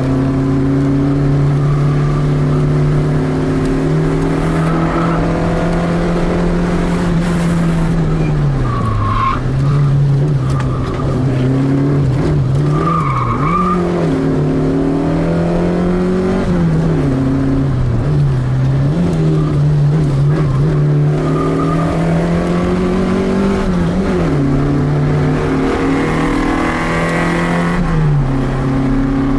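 Peugeot 205 Rallye's four-cylinder petrol engine heard from inside the cabin, revving hard and repeatedly climbing in pitch, then dropping at gear changes and braking. Short tyre squeals come through the chicanes, a few of them about a third of the way in.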